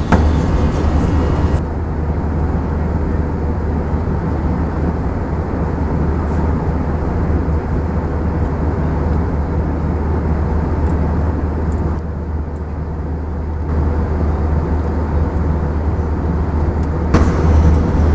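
Steady low rumble of cabin noise aboard an Airbus A321 airliner, from its engines and airflow. The higher hiss drops away abruptly about two seconds in and shifts again a couple of times near the end.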